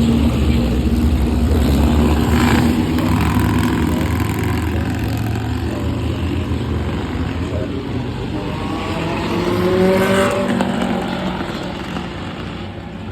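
Classic racing car engines running, with one car's engine note rising and swelling as it passes about ten seconds in, then fading.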